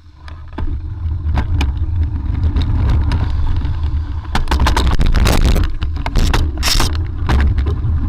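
Car in motion heard through a dashcam microphone: a heavy, steady low rumble of road and wind noise, with many sharp knocks and clicks and bursts of harsher scraping noise between about halfway and three-quarters of the way through.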